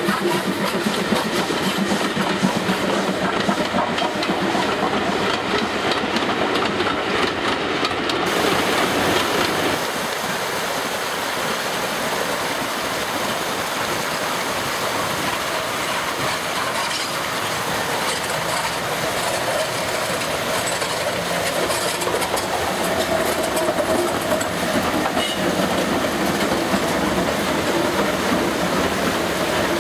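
Steam-hauled passenger train rolling past, its coach wheels clattering over the rail joints. About eight seconds in the sound changes abruptly to a steam locomotive approaching, then its coaches running past.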